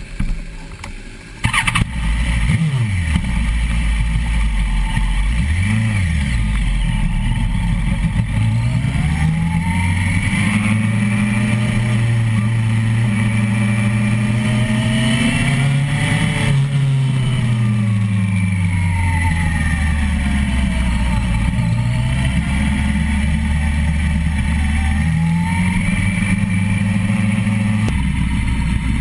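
Suzuki GSX-R1000's inline-four engine catching about a second and a half in, blipped twice, then pulling away at low revs. The revs climb slowly for several seconds, ease off, and rise again near the end.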